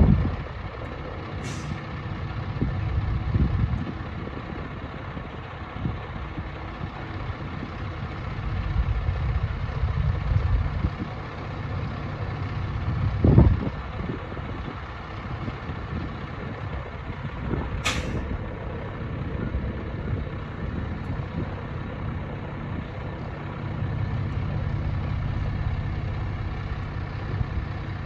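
Kenworth T880 dump truck's diesel engine running, its sound swelling and easing, with two short sharp air hisses, the first about a second and a half in and the second about two-thirds of the way through. A loud low thump comes around the middle.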